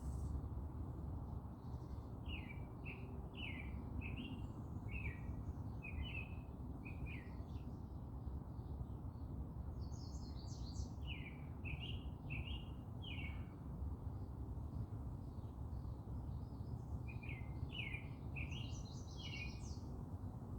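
Birds chirping: three runs of short, quickly repeated chirps, with a few higher, thinner notes near the middle and again near the end, over a steady low background rumble.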